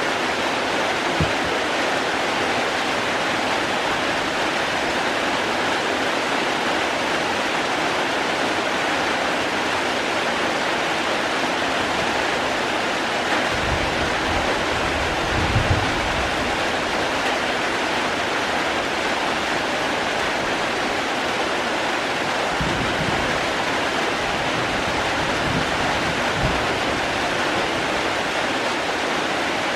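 Steady, dense rain hiss. Twice, around the middle and again later, a low rumble lasts a few seconds under it.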